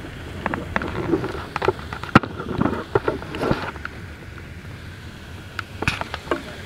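Rain striking the car, heard from inside as scattered, irregular sharp ticks over a low, steady rumble, with one louder tick about two seconds in.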